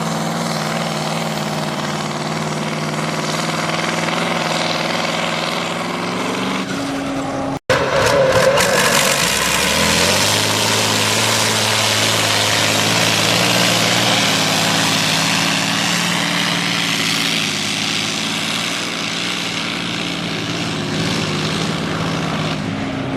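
Tractor engine running steadily. About seven and a half seconds in it cuts abruptly to another stretch of engine sound whose pitch rises a little.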